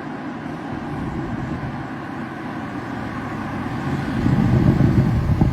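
Audi RS6 engine rumbling and building steadily louder, swelling sharply about four seconds in as it accelerates.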